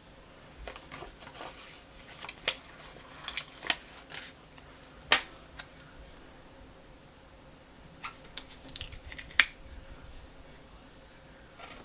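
Scattered light clicks, taps and rustles of planner stickers and paper sheets being handled, with two sharp clicks that stand out, about five seconds in and again about nine seconds in.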